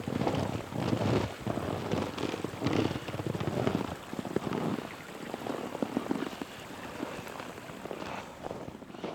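Footsteps crunching through snow at a walking pace, about one step a second, growing softer after about four seconds.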